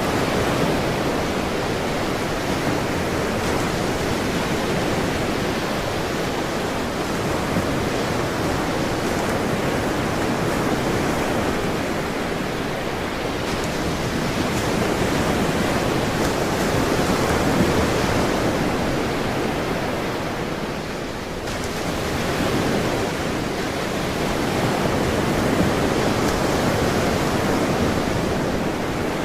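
Ocean surf: a steady wash of breaking waves that swells and eases slowly, with a short lull about three-quarters of the way through.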